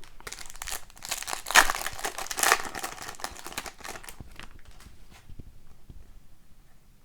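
Foil wrapper of an Upper Deck hockey card pack crinkling and tearing as it is opened, loudest about a second and a half in and again a second later, then fading to lighter rustling and clicks.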